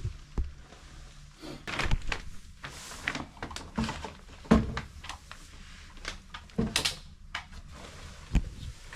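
Irregular knocks, clunks and short scrapes of boiler parts being handled, the loudest clunk about four and a half seconds in.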